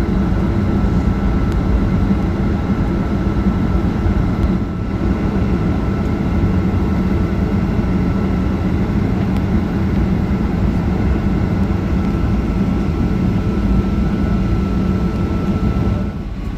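Steady cabin noise of a Boeing 737-800 jetliner: a constant low rumble from its engines and airflow, with a faint steady whine above it. The sound drops away abruptly just before the end.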